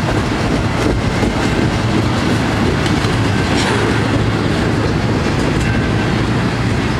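Long, slow Norfolk Southern intermodal freight train rolling past: a steady, loud rumble of railcars with the steel wheels clacking over the rail joints.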